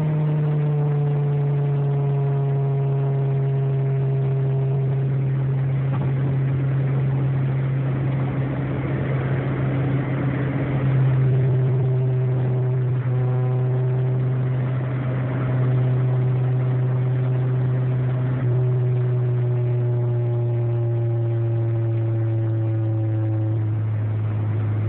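Honda Prelude's engine and road noise droning inside the cabin at highway speed: a steady low hum that slowly sinks in pitch, dropping a little twice along the way.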